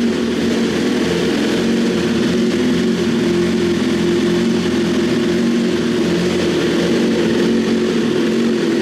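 Superbike's inline-four engine idling steadily shortly after a cold start, with an even pitch and no revving.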